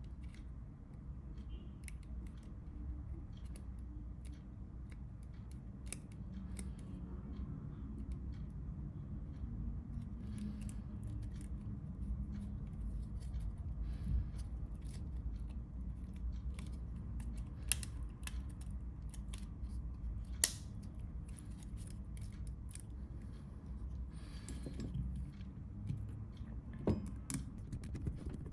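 Irregular small clicks and taps of hands handling a Nokia 3310's small parts and tools, a few sharper snaps among them, over a steady low hum.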